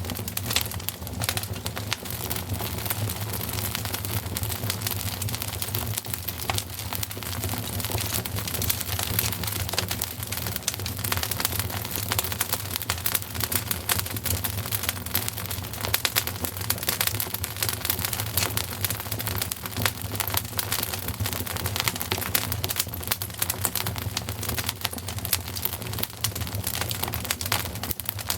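Wood fire in a fireplace crackling steadily, a dense run of small pops and crackles over a low, even rumble.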